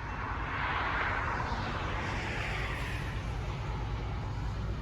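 Approaching GE diesel locomotives working hard in a high notch to pull a long freight train upgrade, a steady low rumble, with a rushing noise that swells and fades over the first three seconds.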